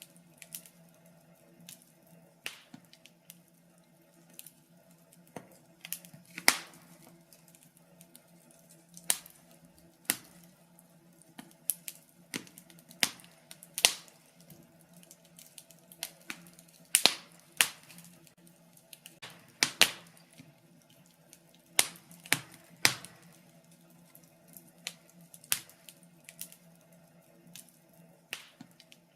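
Wood fire in a fireplace crackling, with irregular sharp pops, a few of them louder, over a faint steady low hum.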